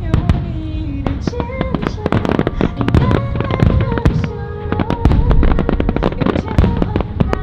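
Aerial fireworks display going off in a rapid, unbroken string of sharp bangs and crackles, with music playing under them.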